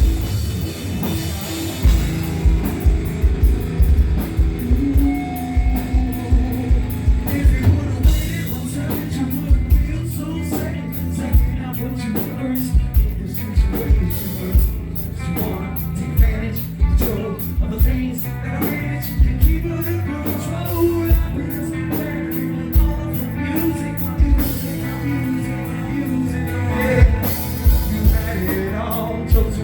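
Heavy rock band playing live, heard loud through a phone microphone: pounding kick drum and crashing cymbals under distorted guitars, with a singer's voice.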